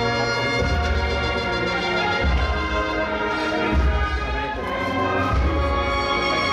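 A brass band playing a Holy Week procession march: sustained brass chords over a heavy, steady bass line.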